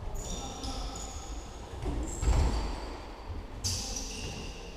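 Indoor football match play echoing in a sports hall: a loud thud of the ball about two seconds in, with short high squeaks and scuffling around it.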